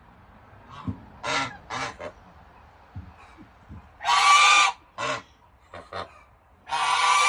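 Domestic goose honking in a series of separate calls: a couple of short honks, then a long loud honk about four seconds in, a few shorter ones, and another long loud honk near the end.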